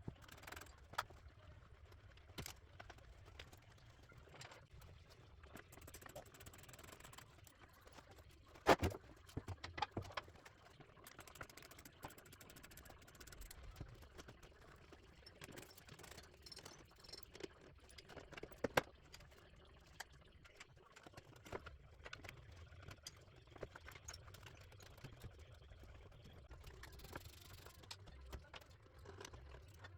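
Scattered clicks, taps and knocks of hand tools and car parts being handled during work on the front end of a car, over a low rumble. The loudest knocks come about nine seconds in and again near the middle.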